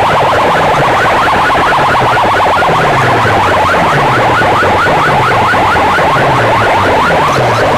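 DJ competition music played very loud through large sound-box speaker stacks and heavily distorted. Rapid falling electronic zap effects repeat about four times a second over repeated falling bass sweeps.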